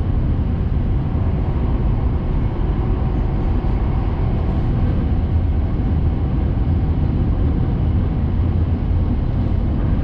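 Cabin noise of a Hayabusa Shinkansen train running at speed: a steady low rumble.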